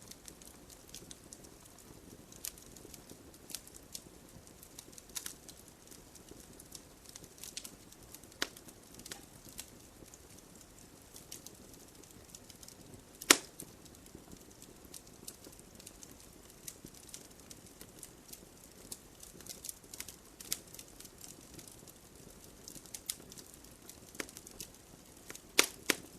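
Wood fire of burning logs in a fireplace crackling, with scattered sharp snaps and pops over a low hiss; one loud pop about halfway through and a couple more near the end.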